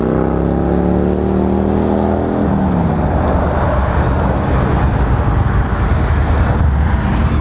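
A passing motor vehicle: its engine note falls in pitch as it goes by over the first couple of seconds, then gives way to a steady loud rumble of traffic and road noise.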